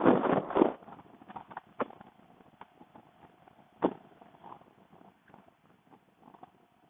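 Wind buffeting a motorcycle rider's helmet microphone: a loud rush of wind in the first second, then a low background with scattered short thumps.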